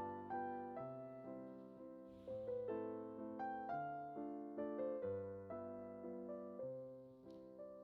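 Soft, slow solo piano background music: a gentle melody over sustained bass notes.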